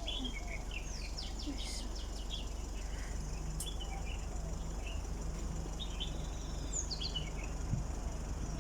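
Small birds chirping: a quick run of short descending notes about a second in, then scattered short calls, over a steady low background rumble.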